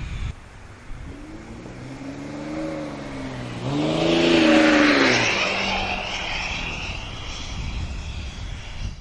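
Jeep Grand Cherokee EcoDiesel's 3.0 L V6 turbodiesel with a FloPro exhaust going by under power: the engine note climbs, is loudest about four to five seconds in, then falls away.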